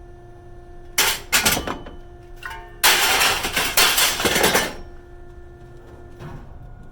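Scrap metal being handled, with two loud stretches of clattering and scraping and a brief metallic ring between them.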